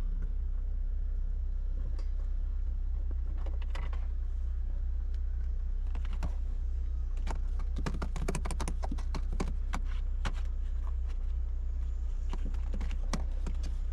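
Quick clicks and taps in clusters, thickest in the second half, over a steady low hum.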